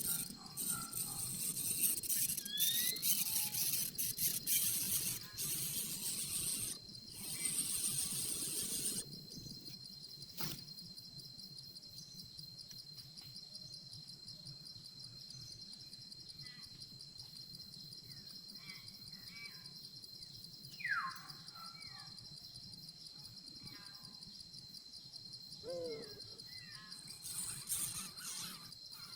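Steady high-pitched insect buzz, with rustling noise through the first third and a few faint short chirps and falling calls later on.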